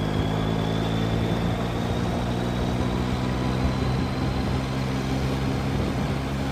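Yamaha FZ-09 motorcycle's three-cylinder engine running at a steady speed under way, its pitch holding level.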